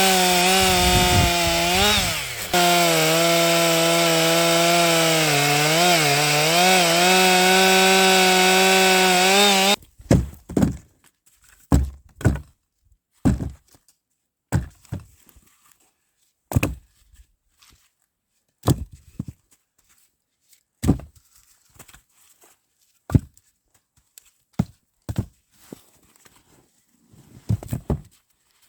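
Two-stroke chainsaw running at high revs, its pitch dipping briefly a couple of times as it bogs in the cut, then stopping abruptly about ten seconds in. After that, a series of separate sharp wooden thunks, one every second or two.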